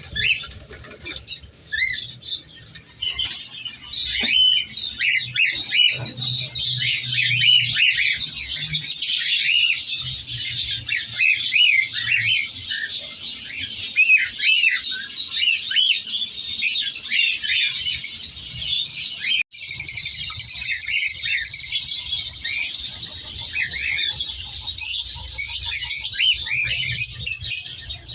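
A flock of cockatiels chirping and calling over one another in a dense, continuous chatter, briefly cut off about two-thirds of the way through.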